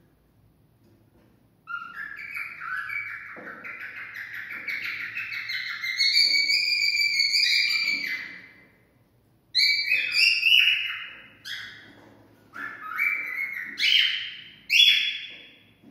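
Cockatiel singing: a long warbling run of whistled notes that climbs in pitch, a short pause, then a string of short, separate whistles.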